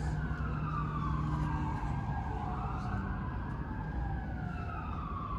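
Emergency vehicle siren wailing, its pitch sliding slowly down and up about every four seconds, over a steady low traffic rumble.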